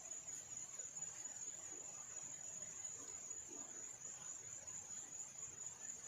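Steady high-pitched chorus of crickets, trilling without a break.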